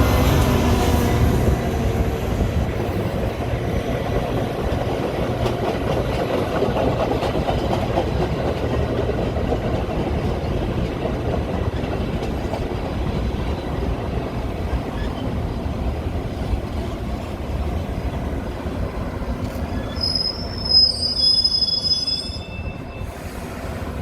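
Metra commuter train cars rolling along the rails with a steady rumble. About twenty seconds in, a short high-pitched wheel squeal comes in, and the sound eases off near the end.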